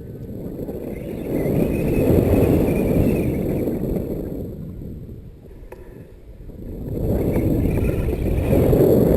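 Wind buffeting the microphone in flight, a low rushing rumble that swells and dies down twice.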